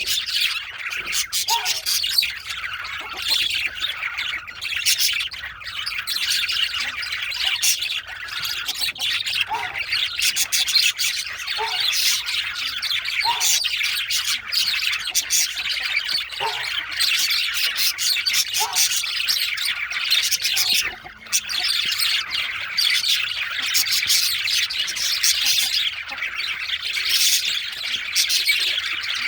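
Male budgerigars chattering non-stop, a dense stream of rapid chirps, warbles and squawks that dips briefly about two-thirds of the way through.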